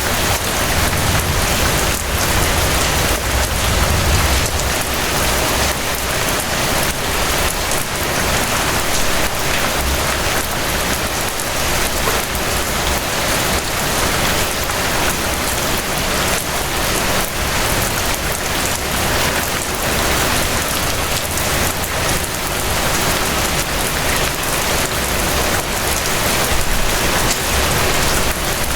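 Steady rain falling and pattering on surfaces, an even hiss of many drops without a break. A low rumble sits underneath during the first few seconds.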